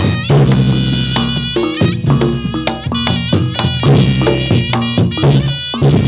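Reog Ponorogo gamelan music accompanying a jathilan dance: a reedy slompret shawm playing a held, wavering melody over quick strokes of kendang drums and ringing struck gongs and metallophones.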